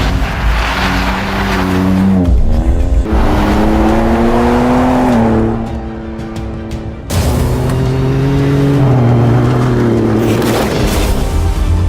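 Pop music playing over a car engine revving, its pitch rising sharply about two and a half seconds in, with a brief drop in loudness near the middle.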